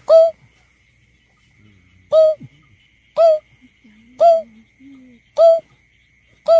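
Greater painted-snipe calling: short hollow hoots repeated about once a second. This is a recorded call of the kind played as a lure to draw the birds out in surveys.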